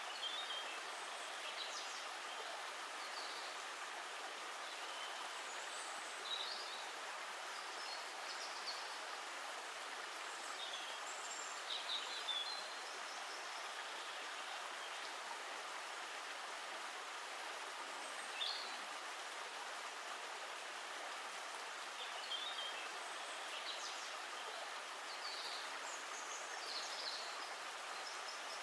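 Steady rush of running water, with short bird chirps scattered throughout.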